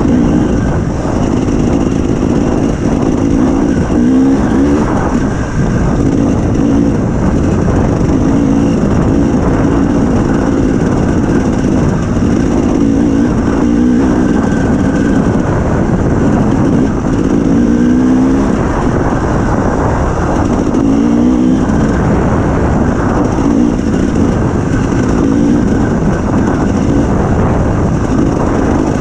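Dirt bike engine running under load, its revs rising and falling over and over as the throttle is worked.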